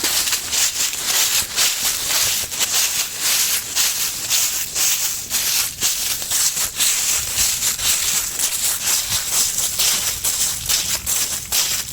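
Footsteps crunching and rustling through dry fallen autumn leaves, in a steady, uneven walking rhythm.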